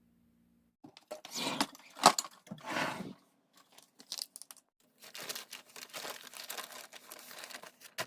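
Plastic packaging being handled: a few rustling swishes with a sharp click about two seconds in, then steady crinkling from about five seconds in.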